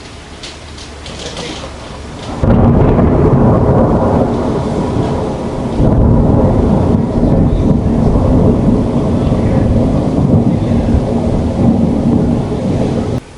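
Rain falling, then about two and a half seconds in a loud, deep rolling rumble of thunder breaks in and keeps going, swelling again about halfway through, before cutting off abruptly near the end.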